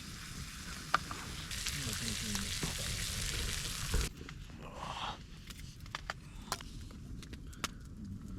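Pork chops and carrots frying in butter in a pan, a steady sizzle that stops abruptly about four seconds in. After that come quieter scattered clicks and crackles.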